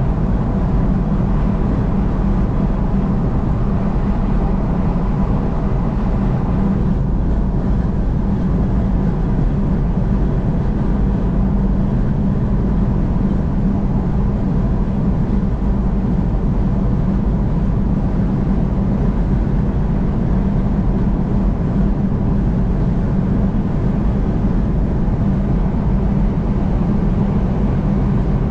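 Steady road and engine noise of a car driving at highway speed, heard from inside the vehicle.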